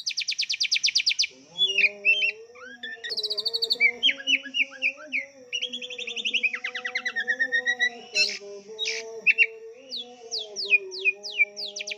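Oriental magpie-robin (kacer) singing a fast, varied song of rapid trills and whistled notes, one phrase after another. This is the rich, imitation-filled 'gacor' song that kacer keepers prize.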